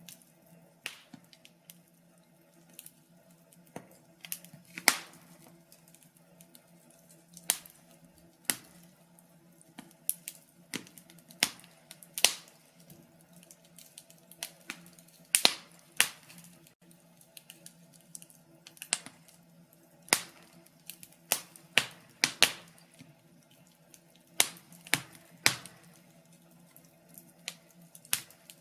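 Wood fire in a fireplace crackling, with irregular sharp pops and snaps, some much louder than others. A faint steady hum runs underneath.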